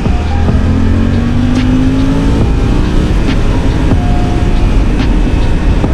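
Suzuki V-Strom 800DE's parallel-twin engine accelerating hard: the pitch climbs for about two seconds, drops at a gear change, and the engine keeps pulling under load with a heavy low rumble of wind and road.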